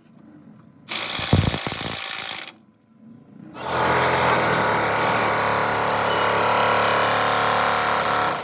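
A power tool running in two bursts: one of about a second and a half, a short pause, then a steady run of nearly five seconds.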